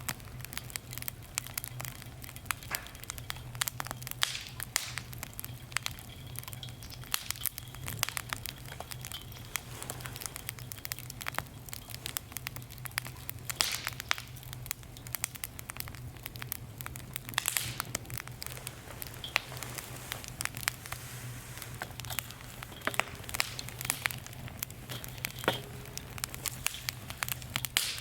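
Firewood burning, with frequent irregular crackles and sharp pops.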